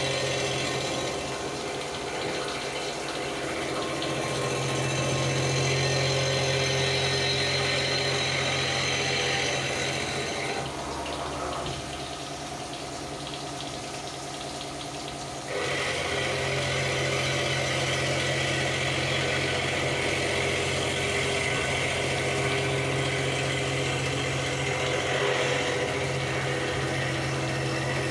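CNC milling machine running while it cuts a cast pump volute, with flood coolant spraying: a steady spindle hum under a hiss of cutting and coolant. About ten seconds in, the hiss drops away for some five seconds, then comes back.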